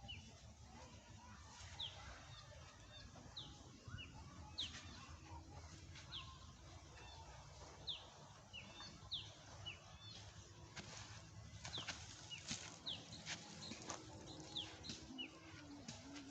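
Faint bird chirping: short, high, falling notes, often in pairs, repeated about every second and a half, with scattered sharp clicks or flutters in the second half.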